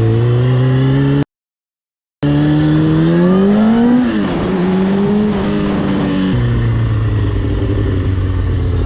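Motorcycle engine running under the rider, cutting out completely for about a second, then rising in pitch as the bike accelerates, dropping sharply at a gear change about four seconds in and stepping down again a couple of seconds later.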